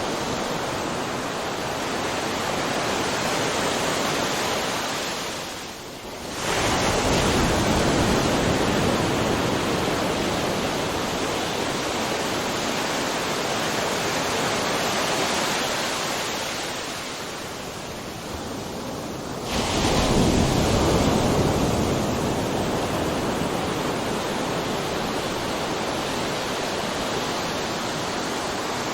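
Ocean surf: a continuous rush of breaking waves, with two brief lulls, each ended by a wave crashing in suddenly, about six seconds in and again about twenty seconds in.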